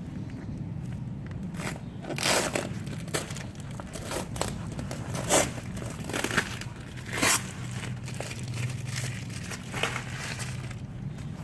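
Packaging being torn open and unwrapped: wrapping crinkling and tearing in short, uneven rustles, over a steady low hum.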